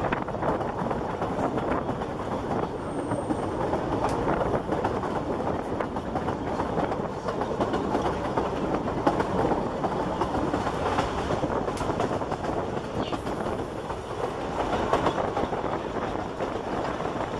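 Narrow-gauge passenger train running at speed, heard from beside a carriage window: a steady rumble and rattle of the coaches' wheels on the track, with scattered clicks.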